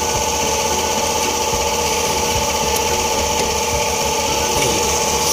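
An engine running steadily at idle: a constant mechanical hum with a steady whine.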